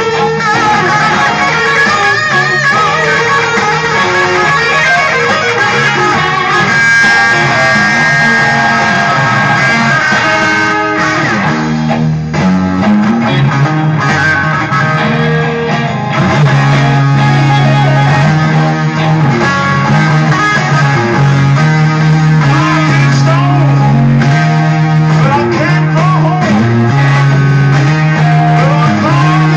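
Electric guitar music played at full level. About twelve seconds in, a loud low riff comes in and repeats under the guitar to the end.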